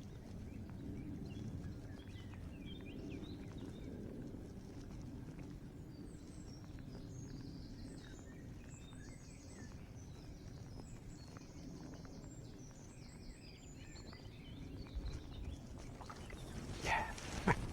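Outdoor ambience: a low steady rumble with faint birdsong chirping through the middle stretch, and a few sharp clicks near the end.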